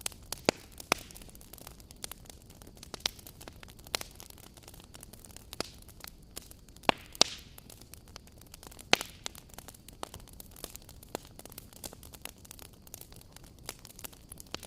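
Wood fire crackling: irregular sharp pops and snaps over a soft hiss, with the loudest pops about seven and nine seconds in.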